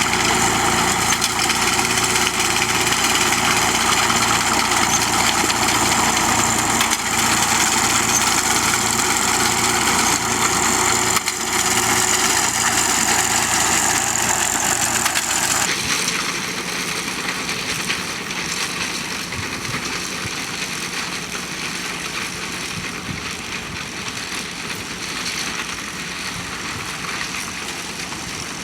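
Tractor engine running steadily while pulling a binder cutting wheat. About halfway through the sound changes abruptly to a quieter engine sound.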